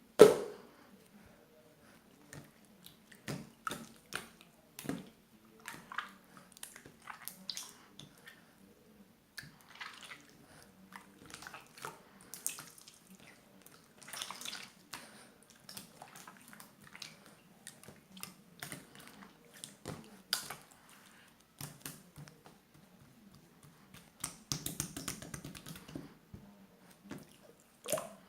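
Slime being squeezed, stretched and poked by hand, making irregular wet clicks, pops and squelches. There is a sharp pop right at the start and a denser run of crackly squishing near the end.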